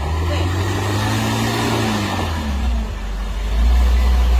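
Truck engine running under load, its note climbing slowly, then dropping about two seconds in and settling into a louder, deep drone.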